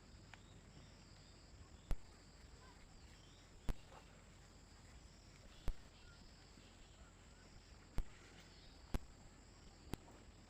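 Faint steady chirping of crickets or other insects, with sharp clicks about every one to two seconds.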